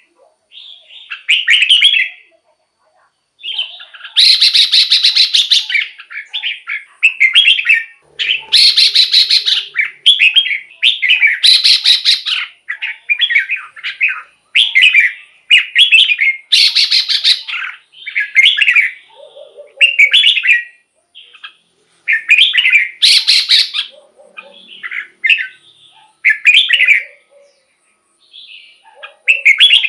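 Red-whiskered bulbul singing short whistled phrases over and over with brief pauses. Several louder, harsh buzzy phrases are mixed in.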